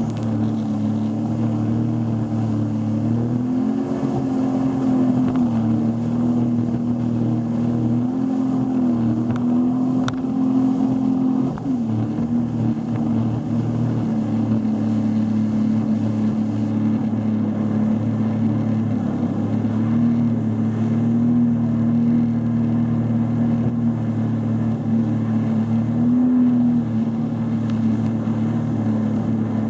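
Motorboat engine running steadily under way, its pitch rising and falling slightly with small changes in throttle.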